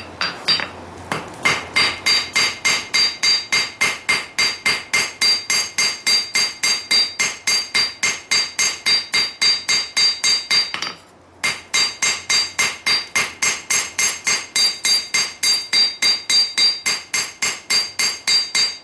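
Hand hammer striking hot steel on an anvil, about four blows a second, each with a clear metallic ring, with a short pause about halfway through. The blade blank is being hammered wider.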